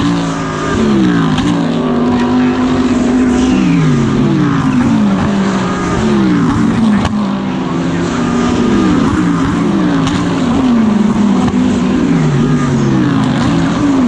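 GT3 race car engine at racing speed, heard onboard. Its pitch drops in quick steps several times as it shifts down for corners, then climbs again under acceleration.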